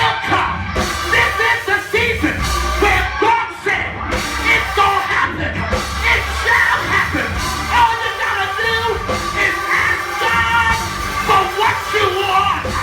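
Loud church music with singing and shouting voices over a steady low bass, without a break.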